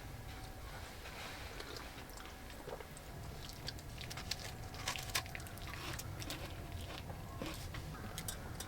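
Chewing: irregular small crunching clicks over a steady low hum.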